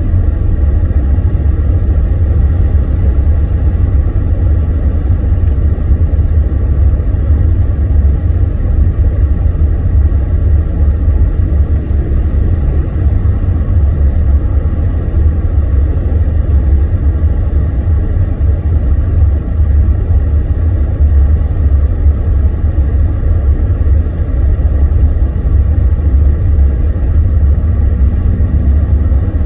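Car driving on the road, heard from inside the cabin as a steady low rumble of engine and road noise.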